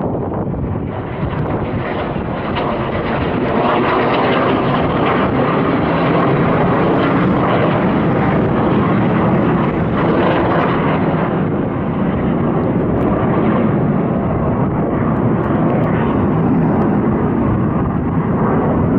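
Military fighter jets flying low overhead: a loud, continuous jet-engine roar that swells about three to four seconds in and stays high.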